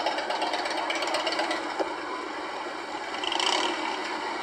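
Motorcycle engines running, with an even pulsing in the first second or so. About three seconds in there is a brief louder, higher sound.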